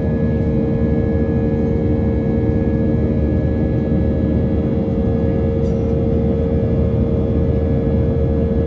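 Airbus A320-232's IAE V2500 jet engines running steadily, heard from inside the passenger cabin as a constant low rumble with a steady hum.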